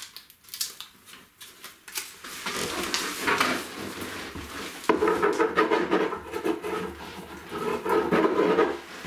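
Thick aluminium foil crinkling and rustling as it is handled and pressed down, with sharp little clicks and crackles, starting about two and a half seconds in.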